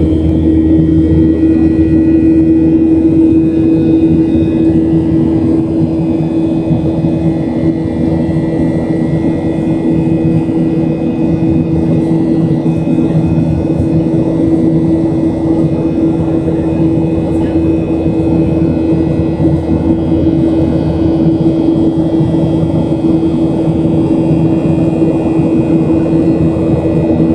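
Boeing 737-700's CFM56-7B turbofan engines heard inside the cabin during the climb: a steady drone with a low rumble and a constant hum.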